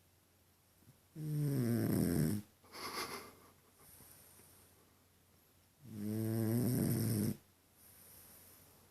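French bulldog snoring: two loud, drawn-out snores on the in-breath about four and a half seconds apart, each followed by a softer, wheezy breath out.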